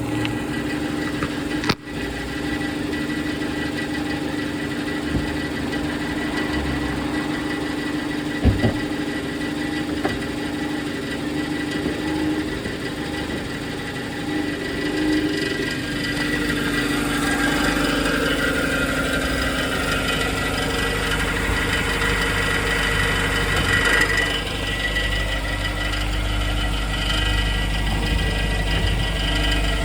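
BMW E87 116i's 1.6-litre four-cylinder petrol engine running steadily, heard from under the car, with a metallic rattle ("karakara") whose cause a workshop inspection could not find.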